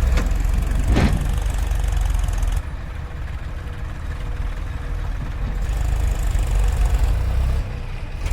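JCB 3DX backhoe loader's diesel engine running with a heavy low rumble, with two sharp knocks near the start and about a second in; the engine sound drops about two and a half seconds in and picks up again a few seconds later.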